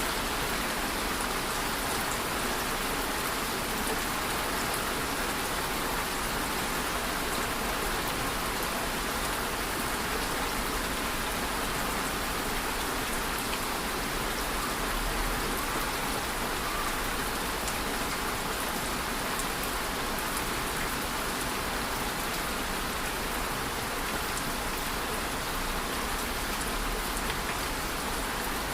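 Steady rain falling, an even hiss of many drops with faint individual drop ticks, holding at one strength.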